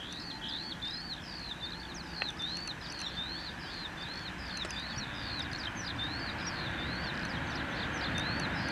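A songbird singing a rapid, steady series of short, arching chirps, about two or three a second. Beneath it a hiss grows steadily louder as a distant train approaches on the electrified line.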